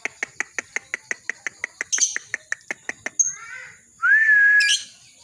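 Lovebird chattering in a fast, even series of sharp chirps, about six a second, the 'ngekek' chatter that keepers train for. Near the end it breaks into a few short notes and then one loud held whistled note.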